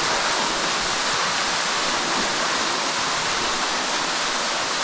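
A tall underground waterfall rushing steadily: a constant, even hiss of falling water.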